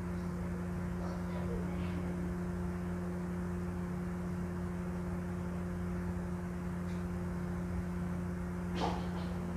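Soft chewing and mouth sounds of someone eating rice and squid by hand, over a steady low hum. A sharper mouth sound comes near the end as a piece of eggplant goes into the mouth.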